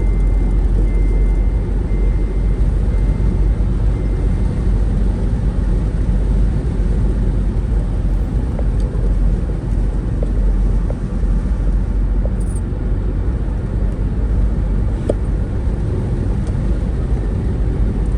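Steady low rumble of a road vehicle on the move, with a run of short, evenly spaced high beeps over the first few seconds.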